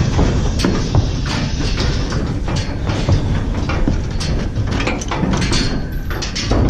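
Heifers clambering into a metal livestock trailer: hooves knocking and the trailer's panels and gates rattling, over a steady low rumble.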